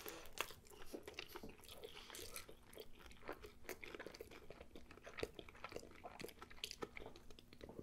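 A person biting into and chewing a toasted everything-bagel breakfast burger with egg and a beef patty: faint, with many small clicks.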